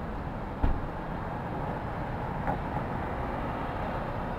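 City street ambience: a steady rumble of traffic, with one sharp thump a little over half a second in and a fainter click a couple of seconds later.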